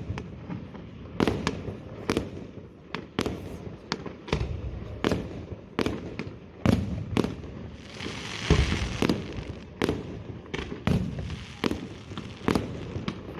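Fireworks display: shells bursting in a quick irregular string of sharp bangs, one or two a second, each followed by a low rolling rumble. A hissing crackle swells a little past the middle.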